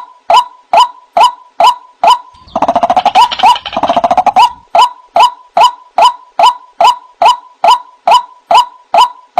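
White-breasted waterhen calls: a short, loud 'kwak' note repeated evenly about twice a second, interrupted about two and a half seconds in by a two-second run of rapid, lower-pitched notes in two bouts, before the steady repeated note resumes.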